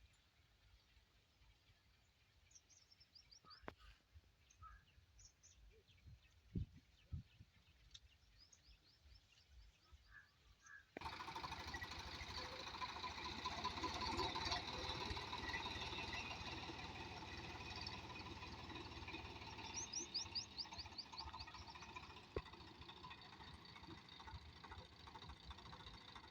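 Small birds chirping over quiet surroundings, then about eleven seconds in a diesel water pump engine's steady running cuts in suddenly and carries on, with a fast even rhythm, as the birds keep chirping.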